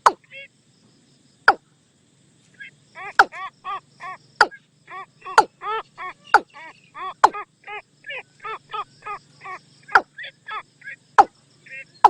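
Watercock calling, a decoy-lure call: after a short pause, a fast run of short arched notes, about three or four a second. Loud sharp clicks sound about once a second throughout.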